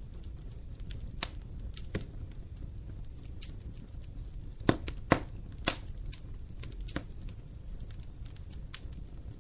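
Wood fire burning in an open fireplace: irregular sharp crackles and pops over a low steady rumble of flame, with a cluster of louder pops around the middle.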